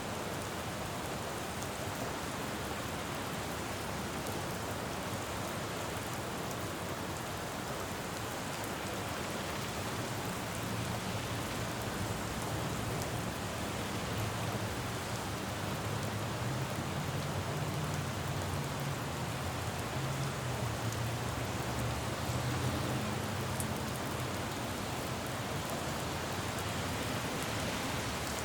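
Steady rain falling on a road, with the low rumble of traffic swelling up about a third of the way in, loudest past the middle, then fading near the end.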